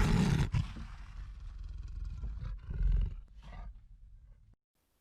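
A recorded lion roaring: a loud roar at the start, then lower rumbling calls with a second swell about three seconds in, dying away about four and a half seconds in.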